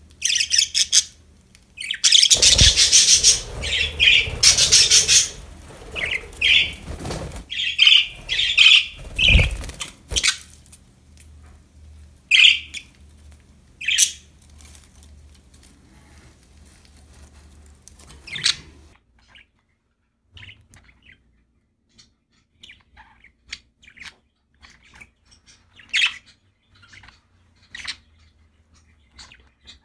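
Budgerigars chirping and chattering, busy and loud for the first several seconds with a couple of dull thumps, then thinning to scattered single chirps that grow fainter in the last third.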